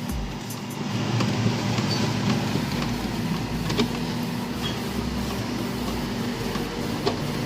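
A steady mechanical hum with a low rumble and a few faint ticks.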